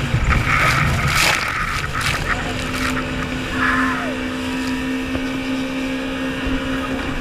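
Personal watercraft engine running under way, with a steady rumble and water splashing against the hull. A steady engine tone comes in about two seconds in, and short hisses of spray come near the start and about halfway through.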